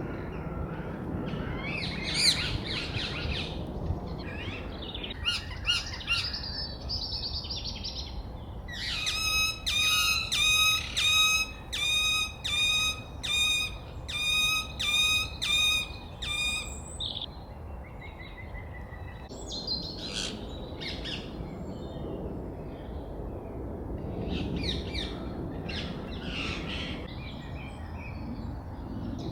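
A parrot calling: scattered chirps and squawks, then a run of about fifteen high-pitched, evenly repeated calls at roughly two a second over several seconds, followed by more irregular calls.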